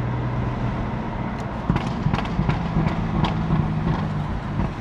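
BMW F80 M3's twin-turbo inline-six running at low speed, its note rising slightly in the middle, with a few sharp pops from the exhaust.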